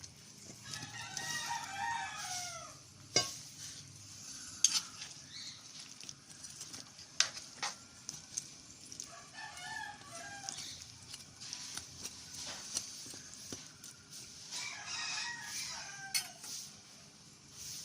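A rooster crowing three times, each crow about two seconds long and falling in pitch at the end, over faint sizzling from the pan. Sharp clinks of a utensil against the pan come in between.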